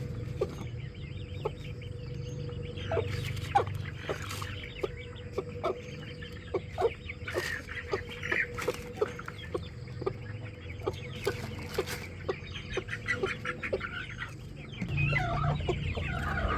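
Chickens clucking, many short calls one after another over a steady low hum, getting busier and louder near the end.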